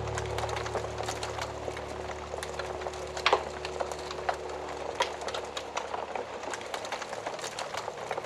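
Wood fire crackling in a fireplace, with irregular sharp pops and snaps, one louder pop about three seconds in. Soft background music fades out under it during the first half.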